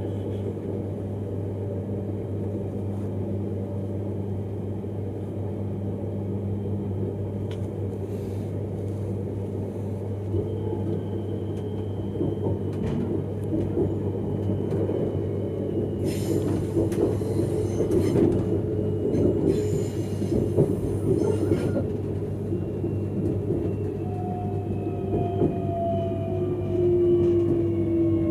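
Öresundståg X31 electric train running on the rails: a steady low hum over the rumble of the wheels, with a stretch of louder rattling and clicks in the middle. Near the end, whining tones slide down in pitch.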